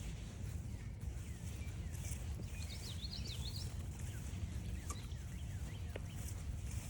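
Several wild birds calling and singing, with a quick twittering phrase about three seconds in and scattered short downward-slurred notes, over a steady low rumble.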